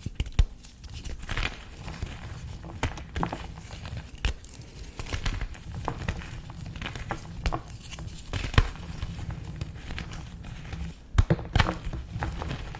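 Small pieces of dyed gym chalk being crushed, crunching and crumbling in irregular crisp snaps, with a few louder cracks about half a second in, past the middle, and near the end.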